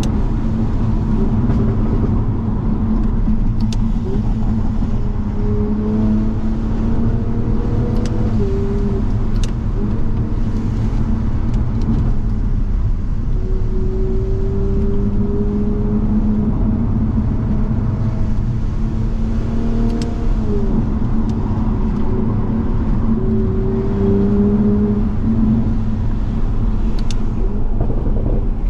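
Toyota Supra MK5's turbocharged inline-six engine pulling through the gears, its pitch rising in several climbs and dropping at each change, over a steady low road drone.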